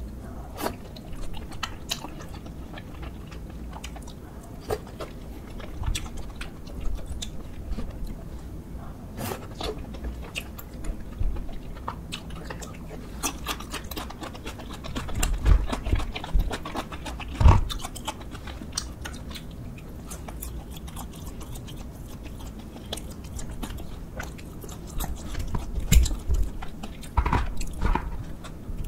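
A person chewing and biting spicy tteokbokki rice cakes and fried boneless chicken, with scattered wet mouth clicks and a few louder bites around the middle and near the end.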